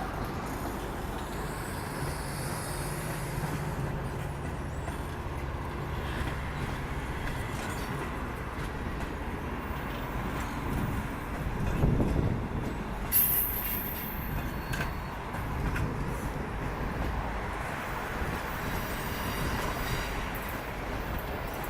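Train 3AS8 moving out on departure: a steady rumble of wheels and cars on the rails, swelling louder about twelve seconds in, followed by a brief high-pitched squeal.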